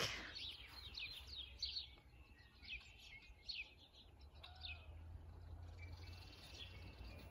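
Faint birds chirping: a quick series of short, high downward-sliding calls in the first few seconds, then a few scattered calls, over a low steady rumble.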